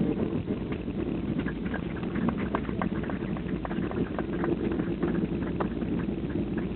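Boeing 737-800 airliner landing, heard from inside the cabin: a steady low rumble with many short rattles and clicks over it.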